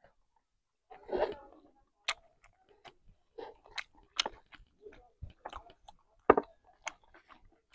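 Close-miked chewing and biting of masala chicken and rice: irregular wet mouth clicks and small crunches. A denser burst comes about a second in, and a sharp, loud click a little past six seconds.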